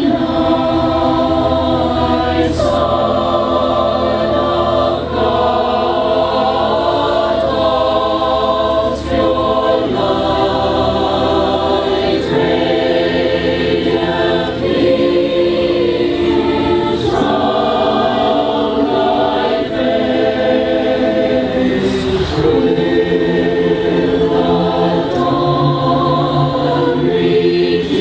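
Community choir singing a cappella, holding chords that change every couple of seconds, with the hiss of sung consonants now and then.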